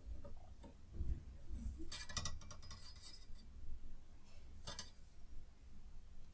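Light clinks and rattles of small hard parts being handled: a quick cluster about two seconds in and a single clink near five seconds.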